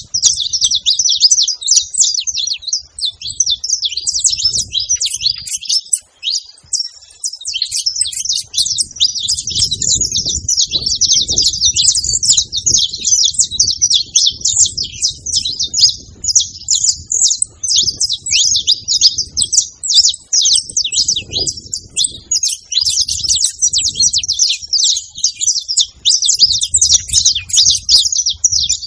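Saffron finch singing: a long, fast run of high chirps and trills, with brief breaks about three and six seconds in.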